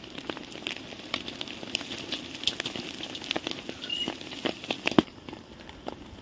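Food frying in a hot pan: irregular crackles and pops over a low sizzle.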